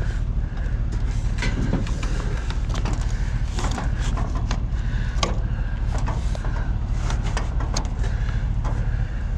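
Steady low vehicle rumble with frequent short clicks and rattles.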